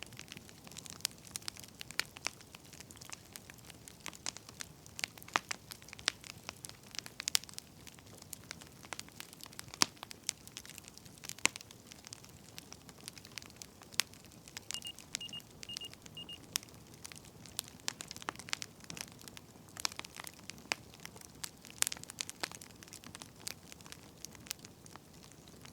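Wood fire crackling: irregular sharp pops and snaps over a faint steady hiss. About fifteen seconds in, a short high beep sounds four times in quick succession.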